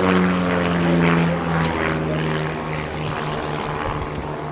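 Propeller aeroplane's engine running in a display pass, its pitch falling slowly as it goes by and the sound easing off.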